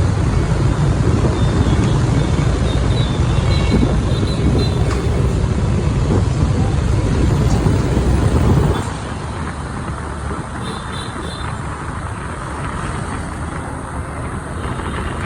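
Motor scooter riding through busy city traffic: steady engine and road noise with a heavy low rumble, which drops noticeably about nine seconds in.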